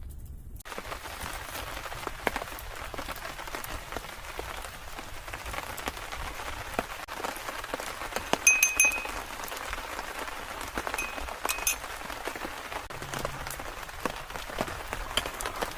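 Steady rain falling, with many individual drops ticking sharply on nearby surfaces. It starts abruptly just after the beginning. Two short high-pitched tones sound briefly over it, one a little past halfway and one a few seconds later.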